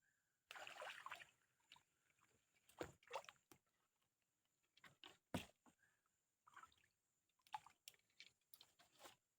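Scattered splashing and sloshing in shallow river water with sharp knocks, in short irregular bursts, as a staked fishing line (tajur) is pushed into place at the water's edge.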